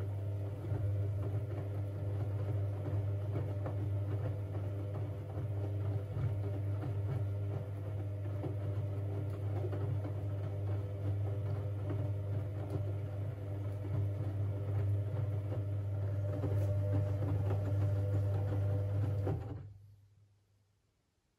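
Siemens Siwamat 6143 washing machine running during a boil wash: a steady low hum with fainter steady tones above it and light rattling, which stops about 19.5 seconds in and dies away over about a second.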